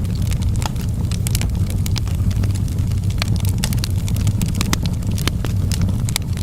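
Fireplace fire crackling, with frequent sharp pops at an irregular pace over a steady low rumble.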